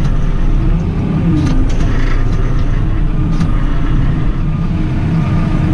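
JCB 310S telehandler's diesel engine running steadily, its pitch rising and falling a little a few times, with a few faint knocks.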